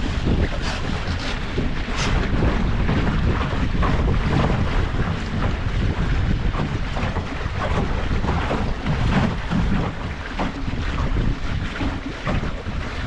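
Wind buffeting the microphone while water splashes and slaps against the hull of a Mirror sailing dinghy under way.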